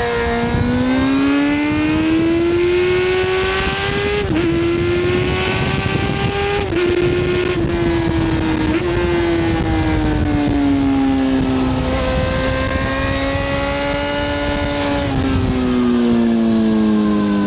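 Honda CBR600F F4i's 600 cc inline-four engine running under way through a MIVV slip-on exhaust with the dB-killer fitted. The revs climb over the first few seconds, with short dips in pitch, then ease off and settle. They fall again near the end as the throttle is rolled off.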